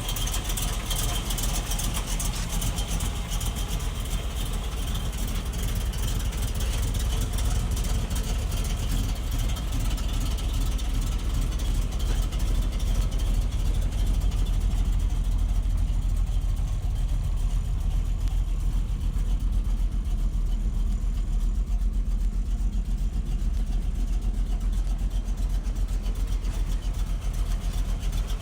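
A 1955 Chevrolet Bel Air's rebuilt 350 cubic-inch V8, fitted with headers and dual exhaust, idling steadily.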